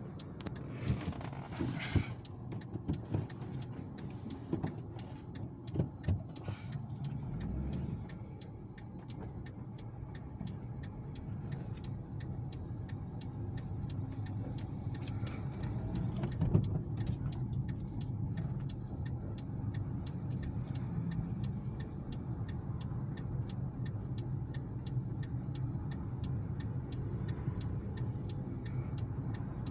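Steady low engine rumble with scattered knocks and clicks during the first eight seconds, and a sharp knock about sixteen seconds in.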